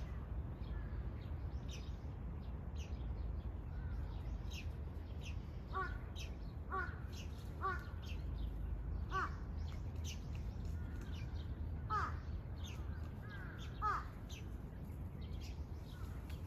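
Birds calling: about six short calls spaced a second or two apart, over many quick high chirps from small birds. A steady low rumble runs underneath.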